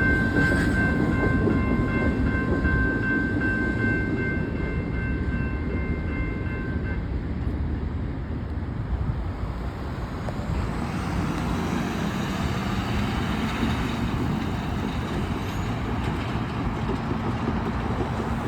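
BNSF double-stack container freight train rolling past, a steady rumble of wheels on rail, with a steady high-pitched ringing tone over roughly the first seven seconds that then stops.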